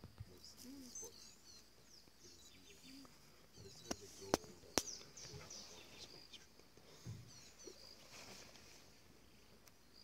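Small birds chirping and twittering throughout, with three sharp clicks between about four and five seconds in that are the loudest sounds.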